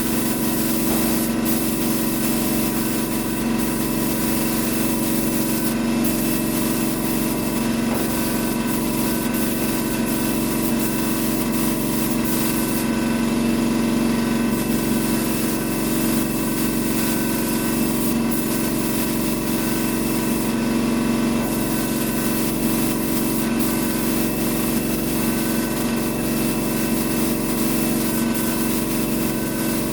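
Compressed-air paint spray gun hissing as clear coat is sprayed, over a steady mechanical hum. The hiss grows brighter twice, for a second or two each time.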